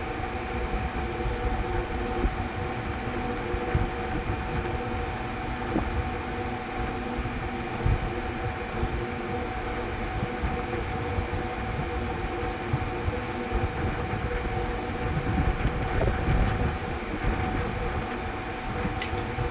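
Steady electrical hum and fan whir from a powered-up FANUC 18TA CNC control unit running normally after repair, with a few steady tones over an uneven low rumble.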